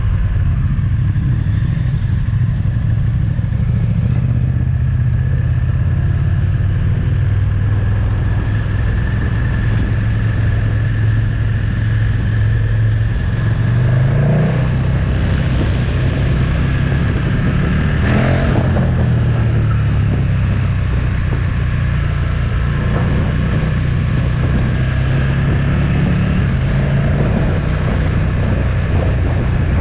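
Motorcycle engine running under way at a steady pace, its note dropping and climbing again twice near the middle as the rider changes speed.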